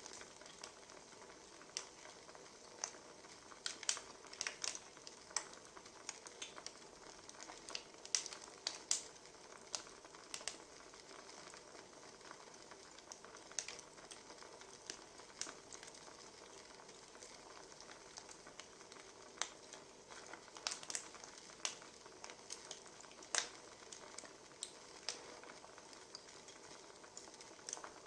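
Wood fire crackling: a soft steady hiss with irregular sharp pops and snaps, some in quick clusters.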